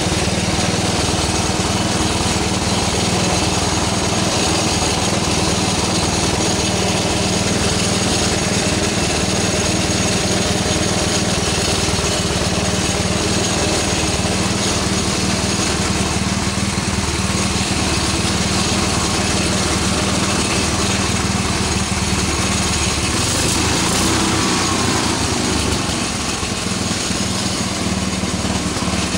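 Single-cylinder go-kart engine, roughly 250 to 350 cc, running steadily at a constant speed, a little quieter for a moment near the end.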